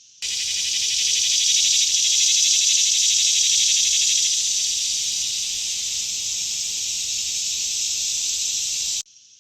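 Cicadas buzzing in a loud, steady, high-pitched drone that starts suddenly just after the start and cuts off abruptly about nine seconds in.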